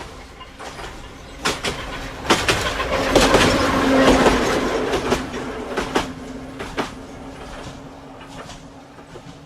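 Kanbara Railway electric railcar passing close by, its wheels clicking sharply over rail joints with a steady low hum. It grows loud about three seconds in, then fades as it moves away.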